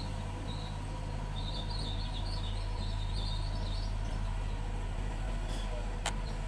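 Mitsubishi bulldozer's diesel engine running steadily, a low even drone, with high chirping over it for a couple of seconds and a single sharp click about six seconds in.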